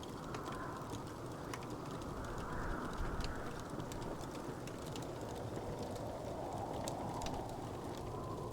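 Wood fire crackling: frequent small sharp pops and ticks over a steady low rushing noise.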